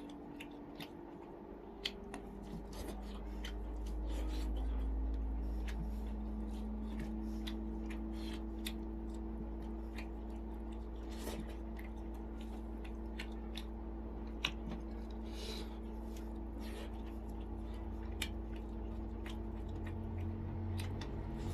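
Close-up eating sounds of someone chewing steamed chicken: scattered wet clicks and smacks of the mouth, over a steady low hum.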